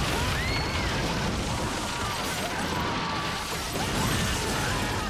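Loud crashing and grinding of a runaway train being forced to a stop, with short high metallic squeals, over music.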